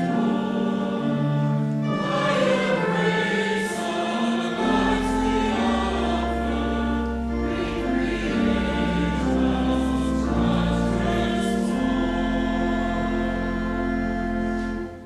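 Choir singing a hymn with instrumental accompaniment, held low bass notes coming in about four and a half seconds in. The music cuts off abruptly at the end.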